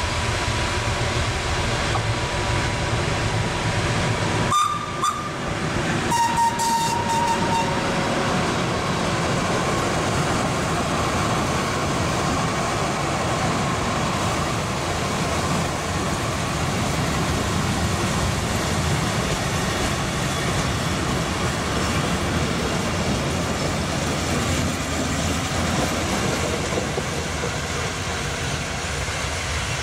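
Historic passenger train arriving: the locomotive approaches with a steady tone, gives a short horn blast about six seconds in, then the vintage carriages roll past with wheels clattering over the rail joints.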